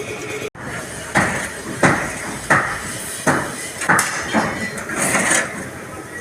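Hammer blows on a metal truck bumper while a dent is being beaten out. There are about seven sharp strikes, roughly one every two-thirds of a second, starting about a second in.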